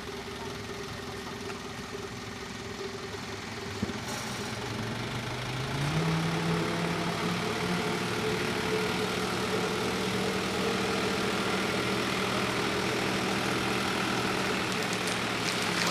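Truck engine running steadily, picking up speed about five seconds in and then holding at the higher pitch.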